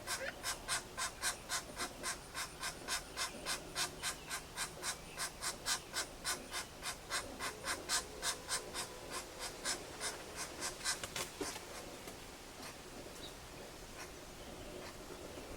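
Pileated woodpecker making a steady series of short, sharp sounds, about four a second, that stops about eleven seconds in.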